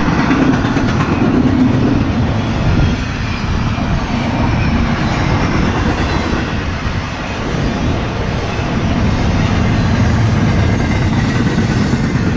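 CSX intermodal freight train's cars rolling past, a loud, steady rumble of steel wheels running on the rails.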